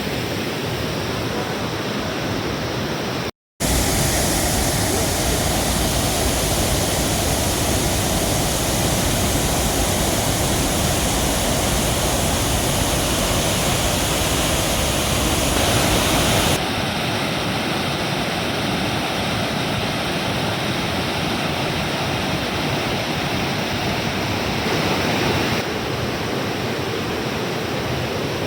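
Pykara Waterfall in rainy-season flood: water crashing over the rocks as a loud, steady rush. It breaks off for a split second about three seconds in, and its level shifts twice later on.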